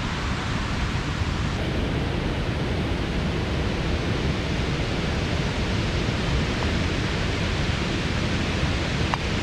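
Waterfall rushing, a loud, steady wash of falling water that does not change.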